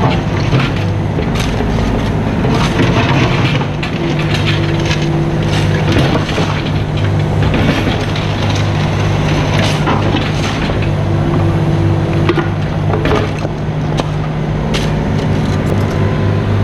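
Mini excavator's diesel engine running steadily under work, with scattered short clanks and scrapes throughout.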